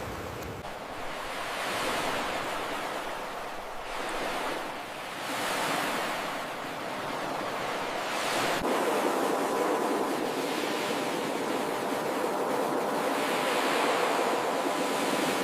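Ocean surf: waves breaking and washing up the beach in a steady hiss that swells and eases a few times.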